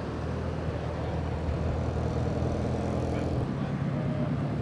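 Turbocharged four-cylinder cars driving slowly past, engines running with a steady low exhaust drone: a Mitsubishi Lancer Evolution IX wagon, then a Subaru Impreza WRX.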